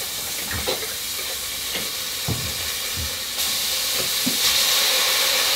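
Curry paste frying in oil in a Dutch oven, sizzling steadily as thick coconut milk is poured in from a can; the sizzle grows louder about four seconds in. A few dull knocks are heard along the way.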